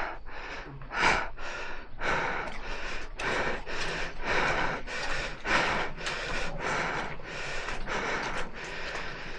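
A person breathing hard close to the microphone, quick rhythmic breaths about twice a second.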